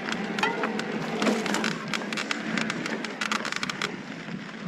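Mountain bike clattering over a loose, rocky trail: a run of irregular clicks and knocks from tyres, chain and frame hitting rocks and gravel, thickest in the second half.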